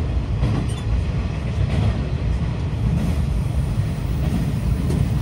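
Passenger train running through a tunnel, heard from inside the carriage: a steady low rumble of wheels and running gear with a few faint clicks.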